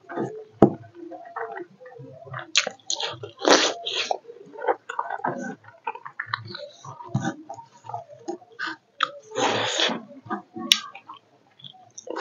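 Close-up eating sounds of a man chewing smoked pork and rice: irregular wet chewing, lip smacks and squishing of food, with a longer, louder rush of noise about nine and a half seconds in.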